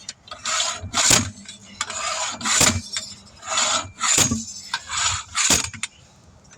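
Repeated hand-tool scraping and rubbing strokes on a tire and wheel as the tire bead is worked loose from the rim. The strokes come in a steady rhythm, often two quick ones about every second and a half.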